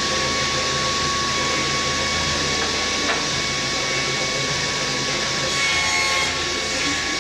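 Circular saw of a Hammer K3 Winner combination machine running with a steady whine while cutting beech firewood.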